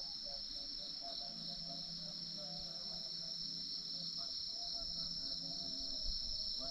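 Steady, continuous chorus of insects, most likely crickets, with a faint, wavering, voice-like tone underneath.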